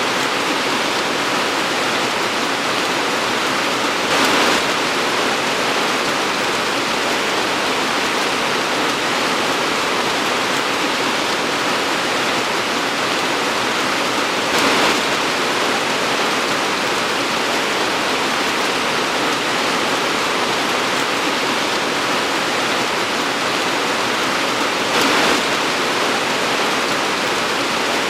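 Torrential rain falling in a steady, dense hiss, briefly swelling louder three times about ten seconds apart.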